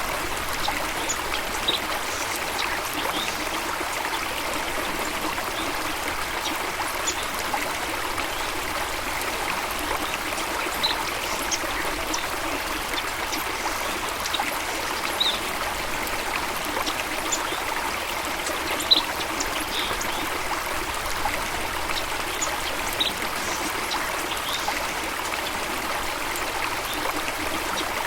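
Running water rushing steadily, with scattered short high blips over it.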